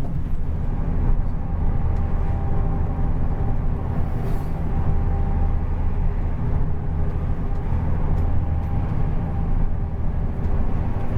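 Intercity coach's diesel engine running steadily through an aftermarket racing exhaust, a deep even drone with no revving. A short hiss about four seconds in.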